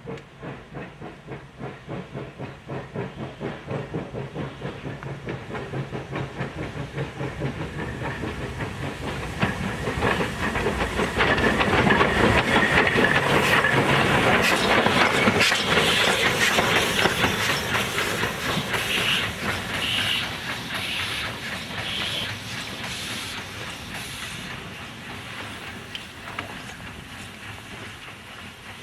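Steam tank locomotive working a train past, its exhaust beats about two a second with steam hiss. It grows louder, is loudest around the middle, then fades away.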